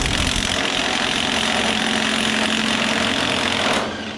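A loud, steady machine noise with a strong hiss runs for about four seconds and cuts off near the end, leaving a low hum.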